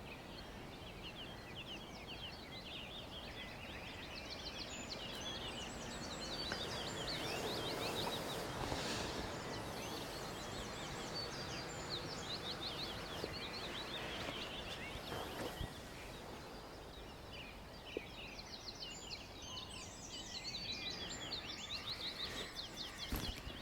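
Wild birds giving runs of high, fast trilling calls, over a steady outdoor hiss.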